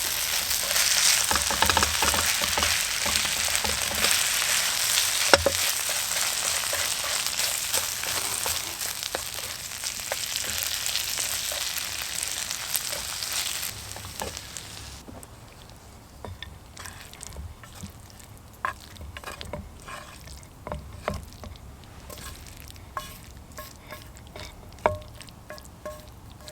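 Stir-fry of pork and vegetables sizzling hard in a hot pan, with small clicks from stirring. About halfway through, the sizzle drops away suddenly, leaving quieter scattered clicks and knocks.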